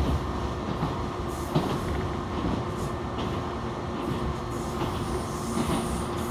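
Running noise of an Echizen Railway local electric train, heard from inside the carriage: a steady low rumble of wheels on the track with a faint steady hum and a few light clicks.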